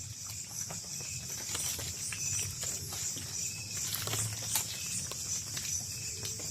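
Night insect chorus, a steady high buzz of crickets, with scattered crackles and rustles of footsteps moving through undergrowth.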